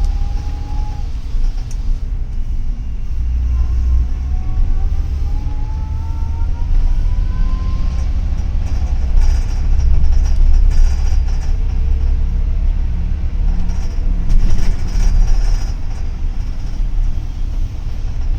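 Double-decker city bus under way, heard from inside: a heavy, steady low rumble of engine and road, with a faint whine rising in pitch between about four and eight seconds in as the bus picks up speed.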